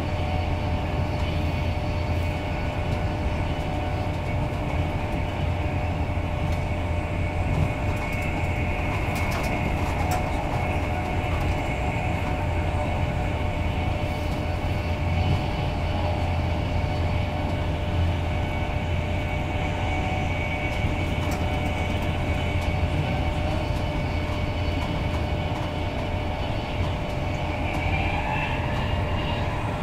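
Steady running noise inside an Intercity 225 Mark 4 passenger coach travelling at speed: an even low rumble of wheels on rail with faint steady tones above it.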